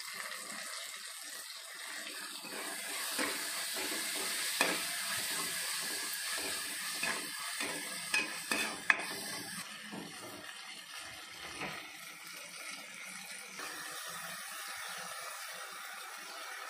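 Onion, tomato and freshly added crushed ginger-garlic sizzling in oil in a nonstick kadai, stirred with a steel spatula that scrapes and taps against the pan. A few sharper taps come near the middle.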